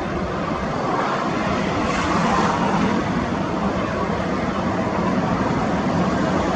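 Steady jet engine noise from a Boeing 787-8, a broad rumble and rush that swells slightly about two seconds in.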